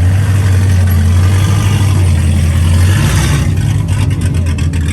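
Car engine running loud and close, with a deep steady note that changes about three seconds in. After that comes a quick, regular pulsing.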